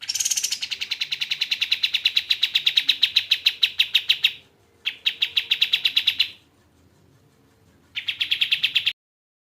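Kapas tembak singing a fast, rapidly repeated chattering trill in three phrases: a long one of about four and a half seconds, a shorter one, then a brief burst near the end.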